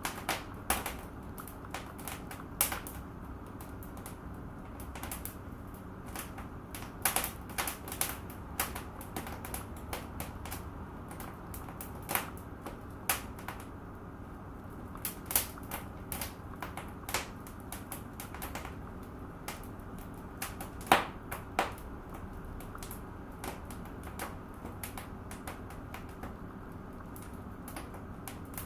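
Wood fire crackling in a fireplace: irregular sharp pops and snaps, a few a second, over a steady low rustle of flame. The loudest snaps come about two and a half seconds in and about two-thirds of the way through.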